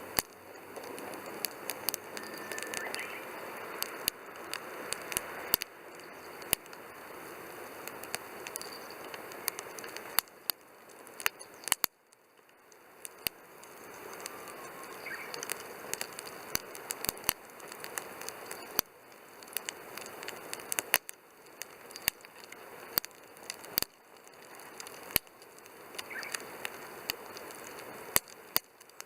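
Wood campfire burning in a Coleman Fire Disc fire pit, crackling with frequent sharp irregular pops over a steady hiss. A few faint short whistles come through now and then.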